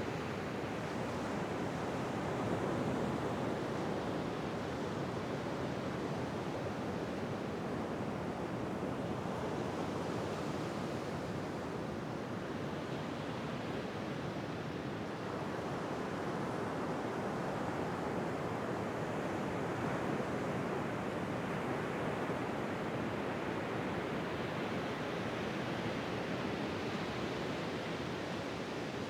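Ocean surf washing onto a shore: a steady rush of water noise that gently swells and eases.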